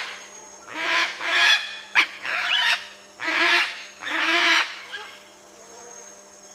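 A series of about five harsh, nasal animal calls, each about half a second long, growing fainter toward the end.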